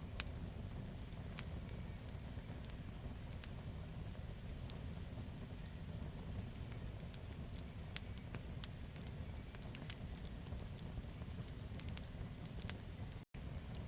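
Campfire burning steadily, a low rumble of flame with frequent irregular crackles and pops of burning wood. The sound cuts out for a split second near the end.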